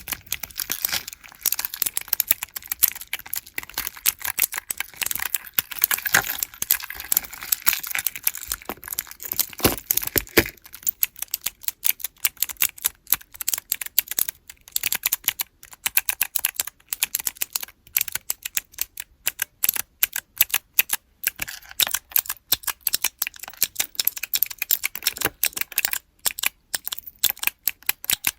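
Rapid, irregular clicking of small keychain keyboard blocks with clicky blue mechanical switches, several presses a second.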